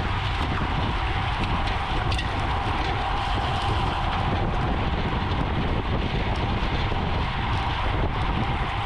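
Steady wind rush on the microphone with the rolling noise of a road bicycle moving at race speed, a constant hiss and low rumble with a faint steady hum through it.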